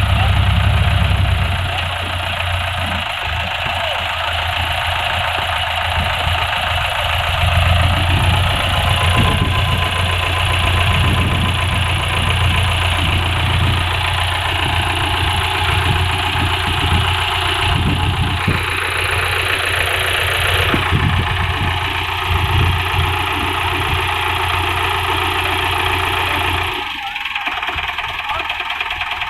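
Tractor diesel engine running steadily with a deep hum; near the end the hum drops away and the sound becomes quieter.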